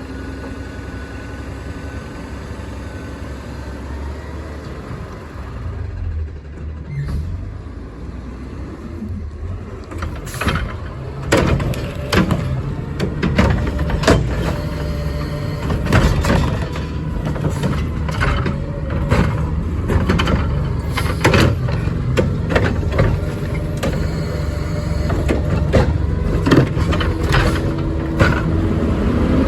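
Peterbilt 520 garbage truck with a Curotto Can working: engine running steadily, then from about ten seconds in a long run of sharp knocks and clatter from the collection gear.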